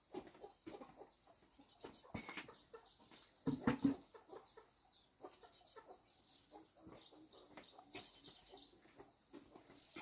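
Chickens clucking faintly, with brief high chirping calls and scattered light knocks.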